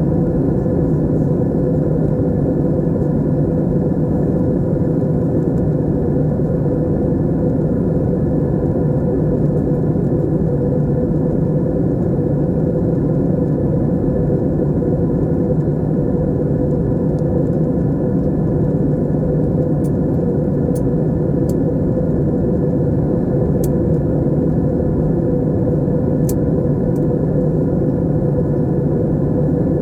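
Steady drone of an airliner cabin in flight: engine and airflow noise with a constant hum, unchanging throughout, with a few faint ticks in the last third.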